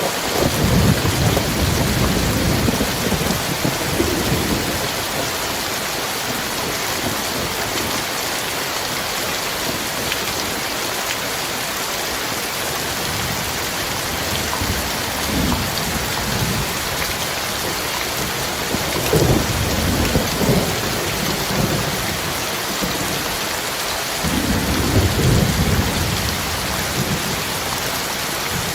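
Heavy rain falling steadily, with thunder rumbling low several times: a long rumble in the first few seconds, a short one about halfway, and two more in the last third.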